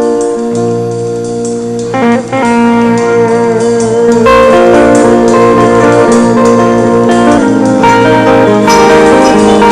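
Live band playing an instrumental passage with guitar to the fore, its texture thickening about four seconds in.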